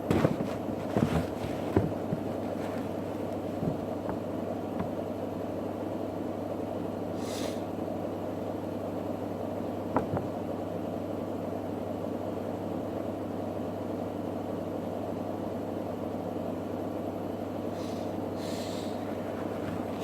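Electrolux WD41A84160 washing machine running its rinse-and-spin cycle: a steady motor and drum hum, with a few knocks in the first couple of seconds and another about halfway through. Two brief swishes come about a third of the way in and near the end.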